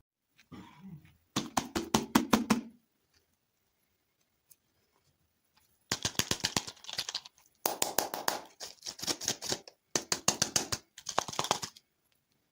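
Crunchy food being chewed close to the microphone, in five bursts of rapid crackling crunches with short pauses between.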